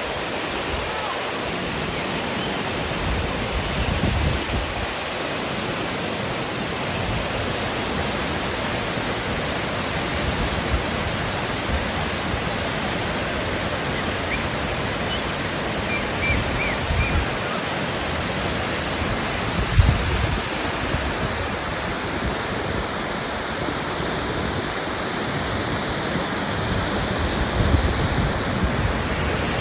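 Wachirathan Waterfall's torrent crashing down: a steady, dense rush of falling water, with brief low rumbling surges now and then.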